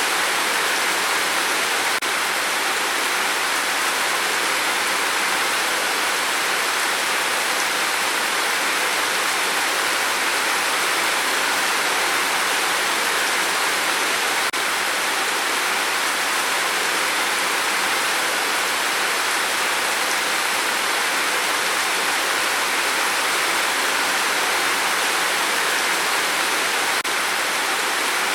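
Steady heavy rain on a tin roof: a dense, even hiss of drops that does not let up.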